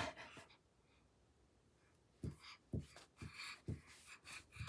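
Faint, soft thumps, about five of them, spread over the last two and a half seconds after a near-silent stretch.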